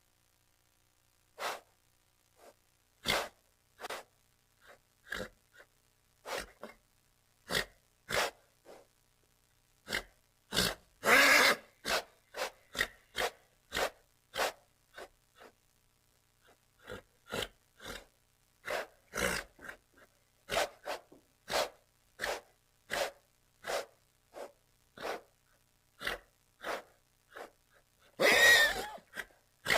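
A horse, close up, making a run of short, irregular breathy puffs and snuffles, with two longer, louder snorts about eleven seconds in and near the end.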